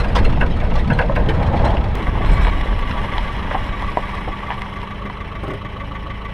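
Suzuki Vitara 4x4's engine: a loud rumble with knocks and rattles for about the first three seconds, then the engine idling steadily and more quietly.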